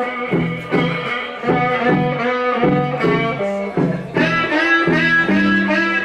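Live electric blues band playing an instrumental passage, guitar to the fore over bass and a steady rhythm.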